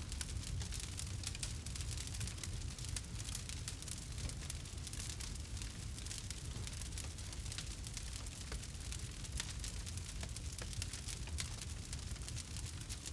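Campfire burning, with frequent small crackles and pops of burning wood over a steady low rumble of the flames.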